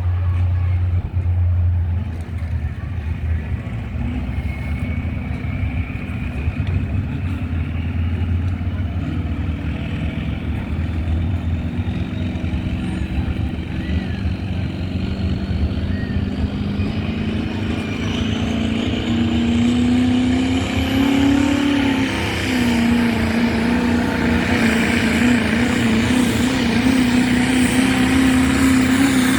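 A pulling truck's engine running hard under load during a truck pull. A thin whine climbs steadily in pitch for about fifteen seconds, and the engine grows louder and steadier toward the end.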